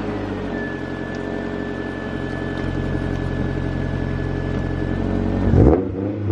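Honda S2000's four-cylinder engine running steadily, with a short rev blip near the end. It has just been bump-started with the clutch because its battery is dead.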